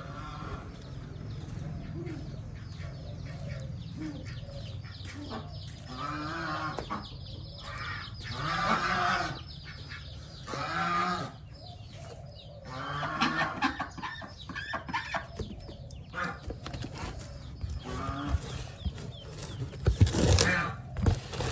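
Poultry calling: short rising-and-falling calls in bouts, over a steady low hum, with a loud knock about twenty seconds in.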